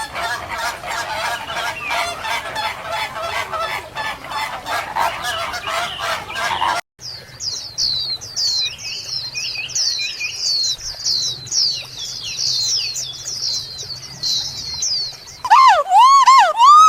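Birds calling in three edited segments. First a dense clamour of many overlapping calls, then after a sudden cut about seven seconds in, many small birds chirping in rapid, high, falling notes over a low hum. Near the end come loud calls that swoop up and down.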